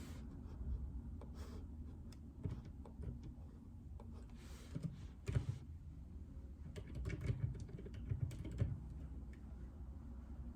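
Typing on a JJK84 mechanical keyboard with Outemu Silent Peach linear switches: muffled, uneven keystrokes in short bursts, over a low steady hum.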